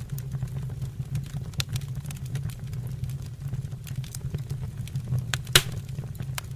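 Wood fire burning in a fireplace: a steady low rumble of flame with scattered crackles, and one loud pop about five and a half seconds in.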